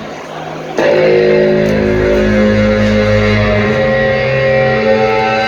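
Live rock band with electric guitars playing; less than a second in, the full band comes in loud with held chords.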